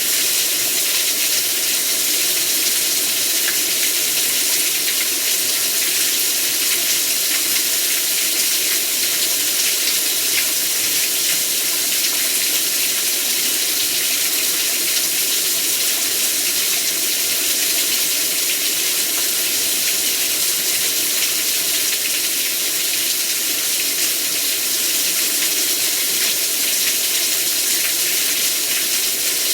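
Heavy rain falling in a steady, dense downpour, an unbroken hiss with no letup.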